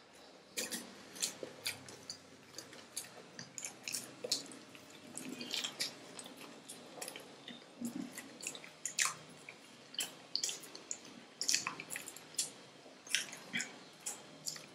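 Close-up chewing of breaded chicken cheese rolls by two people, heard as irregular sharp mouth clicks and smacks, several a second.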